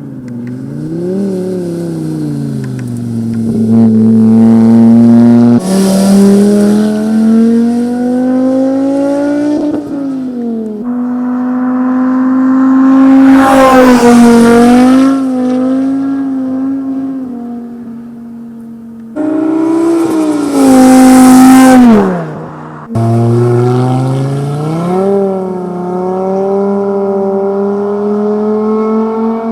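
Audi TT Clubsport Turbo's turbocharged 2.5-litre five-cylinder engine revving and accelerating through its exhaust, pitch rising and falling over and over. It comes as several separate takes joined by abrupt cuts, with the loudest high-rev pulls about the middle and two thirds of the way through.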